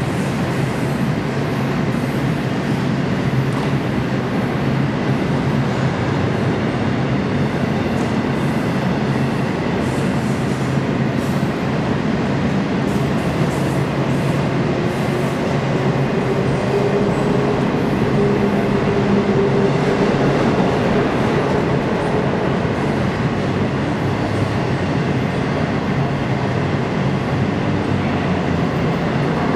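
Double-stack intermodal container cars of a CSX freight train rolling past steadily, wheels rumbling and clattering on the rails. A faint whine comes and goes about halfway through.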